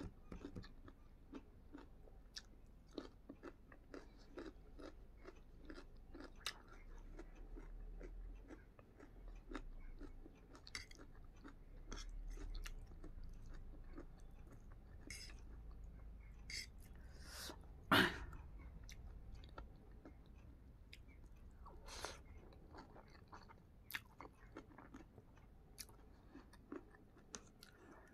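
Close-miked eating sounds: chewing raw carrot slices and vegetable chow mein noodles, with many small wet clicks and crunches and one louder sharp knock about two-thirds of the way through.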